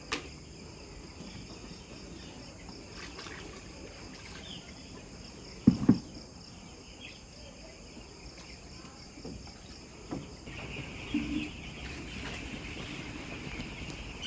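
Chicken-yard ambience: chickens calling now and then over a steady high-pitched drone. Two loud low thumps about six seconds in, and a steady hiss joins about ten and a half seconds in.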